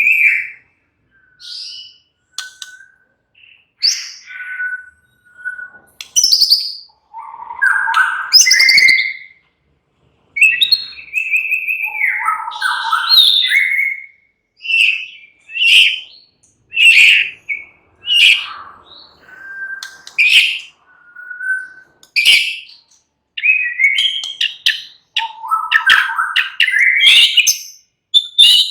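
White-rumped shama (murai batu) singing: a varied run of short whistled phrases, trills and chirps, separated by brief pauses.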